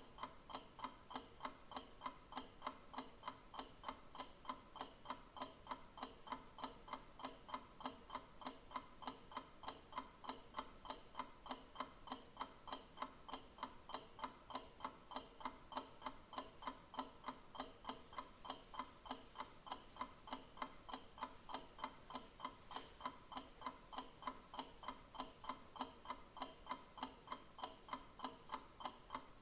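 A clock ticking steadily and evenly, a few ticks a second.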